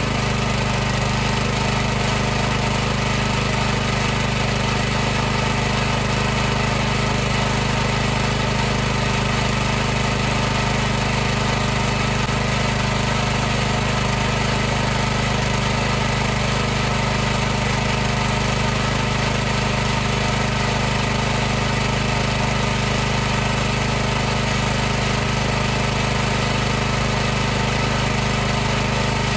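High-pressure washer's motor and pump running steadily, a constant hum made of several steady tones over a hiss, with no change in speed.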